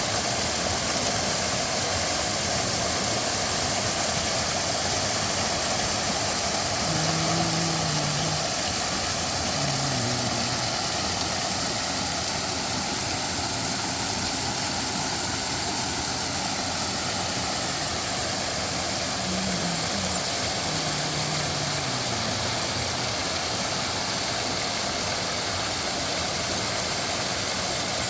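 Mountain-stream waterfall pouring, a steady loud rush of water.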